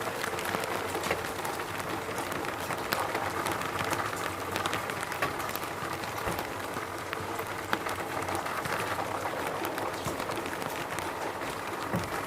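Steady rain falling, an even hiss with many scattered sharper drop impacts.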